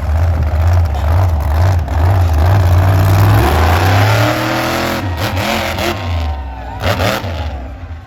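Monster truck engine running hard and revving, its pitch rising and falling. It is loudest in the first half and eases off toward the end.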